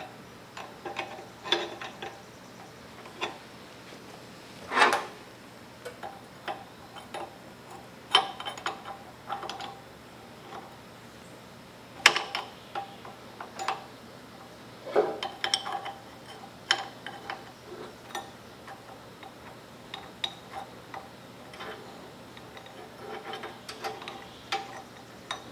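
Irregular clicks, taps and clinks of metal tools and parts being handled during hand work on hydraulic fittings, with louder clanks about five and twelve seconds in.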